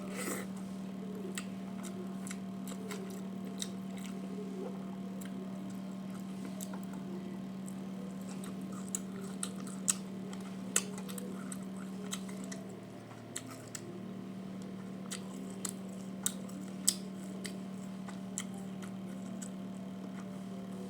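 A person eating: chewing with soft wet smacks and scattered sharp clicks, over a steady low hum that dips briefly about two-thirds of the way through.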